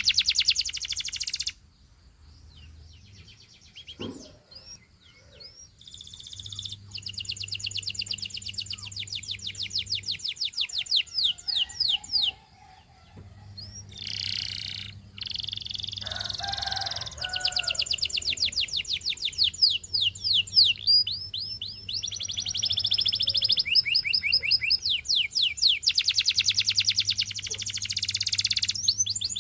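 Canary singing: long, fast trills of rapidly repeated high notes, broken by short pauses, with a quieter stretch a couple of seconds in.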